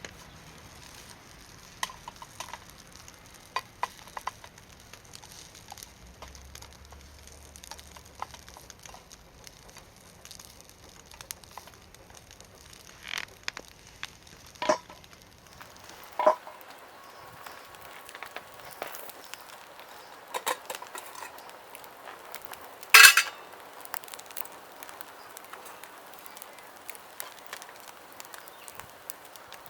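Food frying with a faint sizzle and crackle, with scattered small clicks and clinks of utensils against metal cookware and one louder clatter about two-thirds of the way through.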